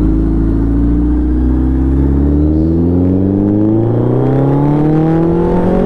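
Inline-four superbike engine under acceleration, its pitch holding for about a second and then climbing steadily without a gear change.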